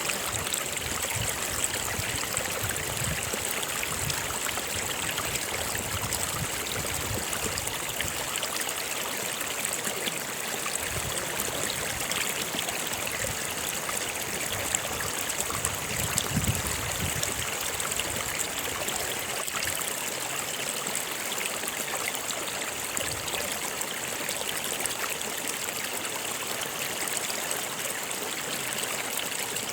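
Flowing stream water, running steadily without a break.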